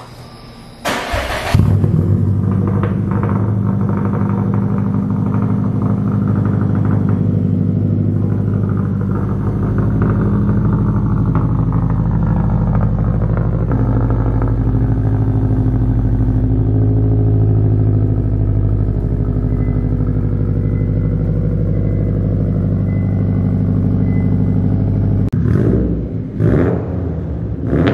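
Stage 3 full bolt-on 2018 Subaru WRX STI's turbocharged flat-four boxer engine, with downpipe and Tomei exhaust, starting up about a second in and then idling with a steady, deep note. The sound breaks up briefly near the end.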